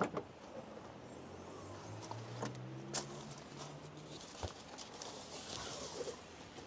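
A low engine drone that slowly rises in pitch through the middle, like a vehicle passing at a distance, with scattered light clicks and knocks over it.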